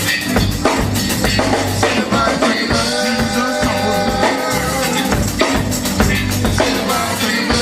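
Gospel quartet band playing an instrumental passage. A drum kit keeps a steady beat with bass drum and rimshots under the bass, and held chords come in about three seconds in.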